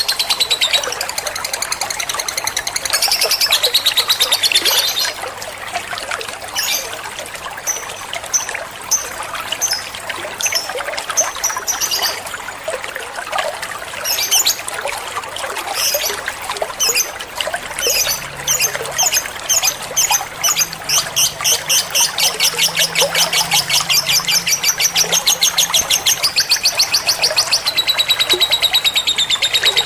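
Lovebird-type bird chatter of high, rapid chirps, played as a training call for a white-rumped shama to copy. Dense chattering at first gives way to scattered single chirps, then to a fast, even run of repeated chirps from about eighteen seconds in.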